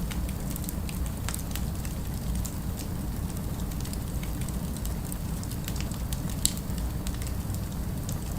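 Fireplace fire crackling, with irregular sharp pops and one louder pop about two-thirds of the way through, over a steady low rumble.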